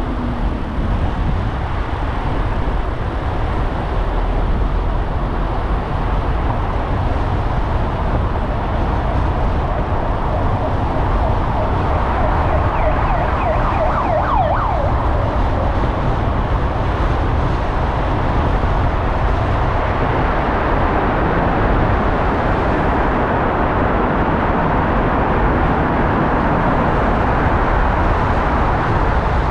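Car driving through city traffic: steady road and engine noise with a deep rumble. About halfway through, a brief high whine rises above it.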